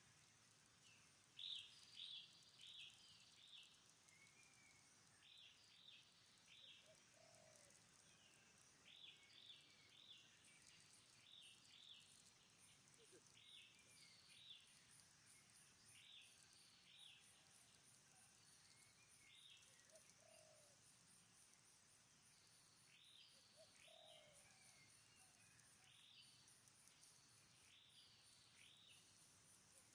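Faint birdsong: clusters of two to four short, high, falling chirps repeat throughout, with a few low short calls in between. A fast, even, very high pulsing trill joins about a third of the way in.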